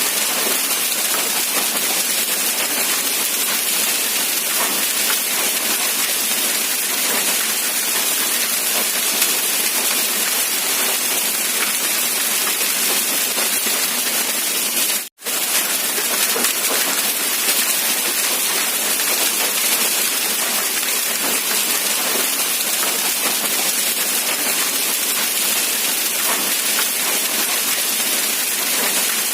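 Steady rain falling, an even hiss with no let-up, broken once about halfway through by a split-second gap of silence.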